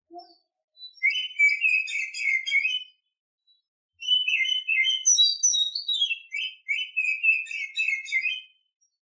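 Female oriental magpie-robin giving its breeding-season song: two phrases of rapid high whistled and chattering notes, the first starting about a second in, the second longer, from about four seconds in to near the end.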